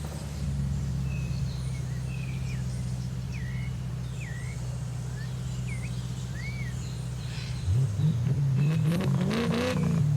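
Audi RS4 engine idling steadily, then revved several times near the end, the pitch climbing and falling with each blip.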